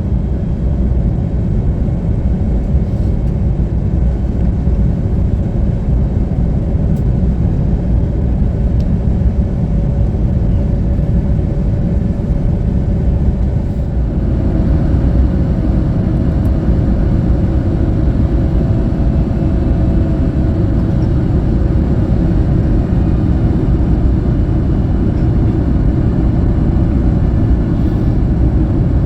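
Cabin noise inside an Airbus A321neo on its landing approach: a steady low rumble of airflow and engines with a faint hum. About halfway through, the sound grows fuller and stays so.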